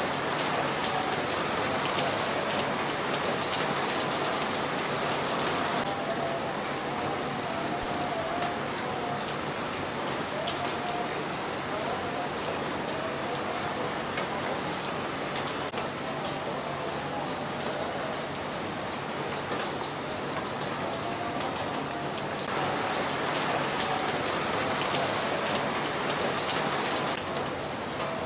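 Steady hiss of rain falling, with faint wavering calls underneath. The hiss changes character abruptly about six seconds in and again about twenty-two seconds in.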